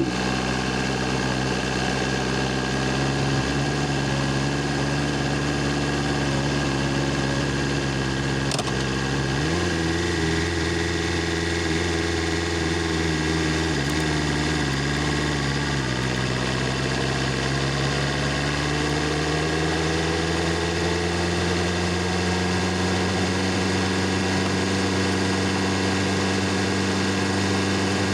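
BMW S1000RR inline-four engine idling steadily. Its pitch steps up about a third of the way in, drops back a few seconds later, then climbs slowly and holds at a slightly higher idle.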